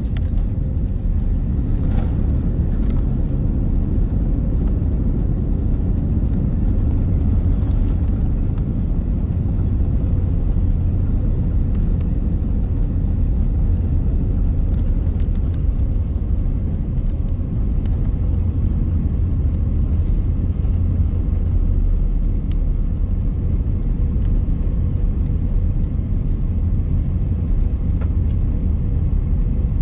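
Steady low cabin rumble inside an Airbus A330-900neo airliner, with a faint steady hum above it and a few light clicks.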